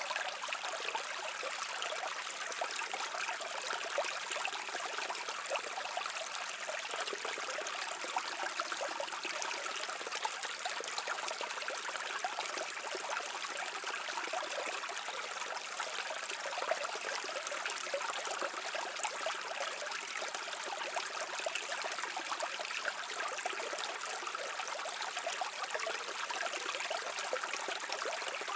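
Mountain stream flowing over rocks: a steady babble and trickle of water that does not change.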